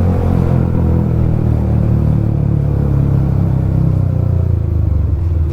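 Bajaj Pulsar NS200's single-cylinder engine running through an aftermarket full-system Akrapovic exhaust on the move, a steady deep exhaust note. Near the end it breaks up into separate exhaust pulses as the revs come down.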